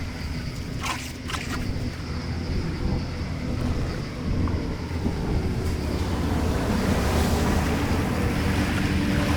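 Floodwater rushing through a drain grate, with wind buffeting the microphone; a few light knocks about a second in, and the rush grows a little louder toward the end.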